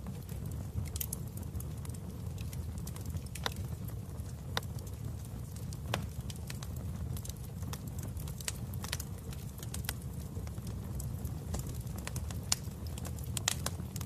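Wood fire burning in a fireplace: a steady low rumble of flames with irregular sharp crackles and pops, a few more of them near the end.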